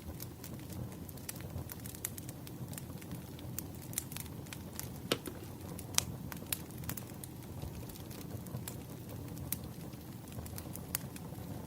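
Wood fire crackling: a steady low rumble with scattered, irregular crackles and pops, two louder pops about five and six seconds in.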